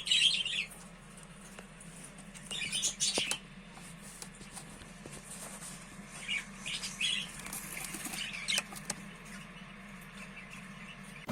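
Budgerigars chirping and chattering in short bouts: one near the start, one around three seconds in, and a longer one from about six to nine seconds, over a steady low hum.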